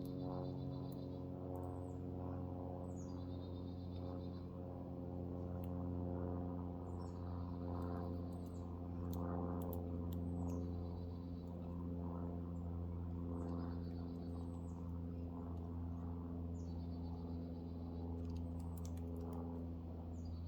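A songbird sings the same short phrase again and again, about every three seconds: a high down-slurred note followed by a quick trill. A steady low hum runs underneath, with a few sharp clicks in the middle and near the end.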